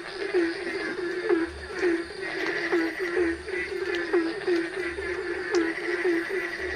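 Frogs calling in the rainy season: a fast, even run of short croaks, about three a second, over a steady background hiss.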